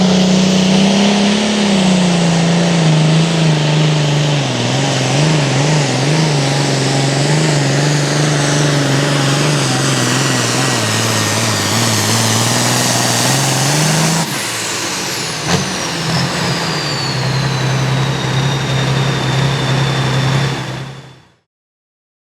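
Turbocharged diesel super farm pulling tractor running hard under load, its engine note wavering as it works. About 14 seconds in the pitch drops and a high turbo whistle falls away, the engine running on at a lower steady note before the sound cuts off abruptly near the end.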